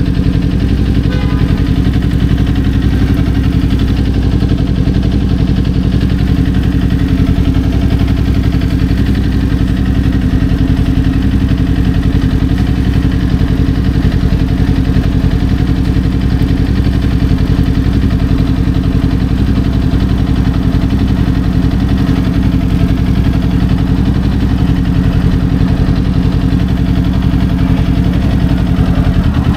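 Kawasaki Ninja 400's parallel-twin engine idling at a steady, unchanging pitch.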